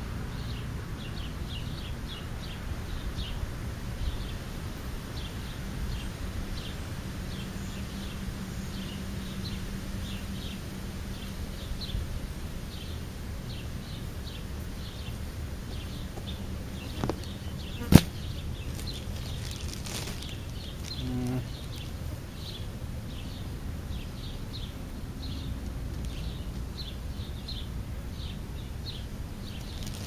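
Small birds chirping in many short, high notes over a low outdoor rumble, with one sharp click about eighteen seconds in.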